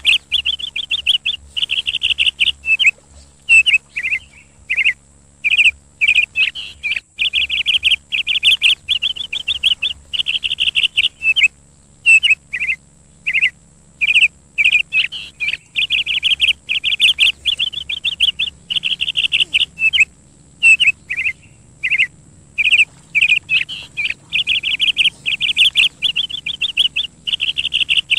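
A bird chirping loudly and almost without pause, in rapid high trills and short chirps broken by brief gaps.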